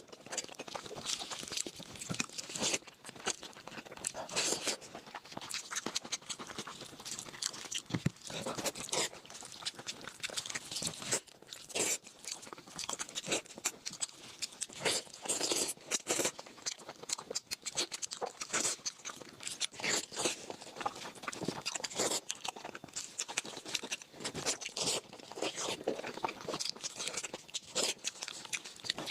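A person crunching and chewing crisp food, with a dense, irregular run of crackling bites and chews.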